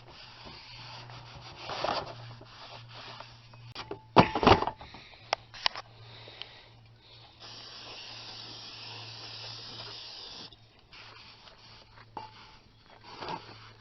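Handling noise from a new brake rotor: rubbing, then a few sharp knocks about four seconds in. Then an aerosol can sprays in a steady hiss for about three seconds, washing the rust-protection coating off the rotor faces.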